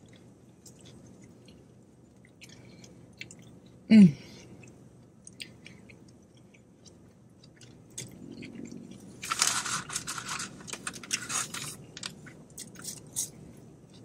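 Close-up chewing and mouth noises of a person eating a bacon cheeseburger on a pretzel bun. About four seconds in there is one short, loud hum of the voice that falls in pitch. Past the middle comes about two seconds of crinkling and crunching.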